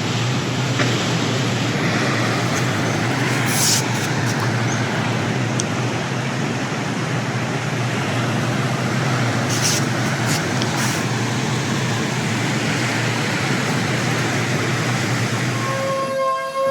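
Strong storm wind blowing and buffeting the microphone in a steady, loud rush with a low rumble and a few brief crackles. A steady whistling tone starts near the end.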